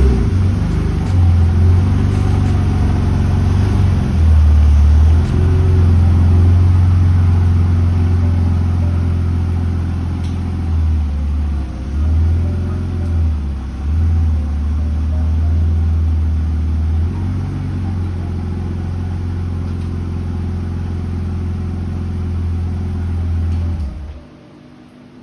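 BMW E46's engine running and being revved, its low drone rising and falling in steps, with the misfire cured. It cuts off about a second before the end.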